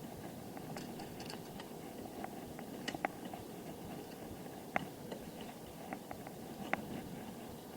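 Steady low rumble of a bicycle rolling along the road, with a sharp click every second or two.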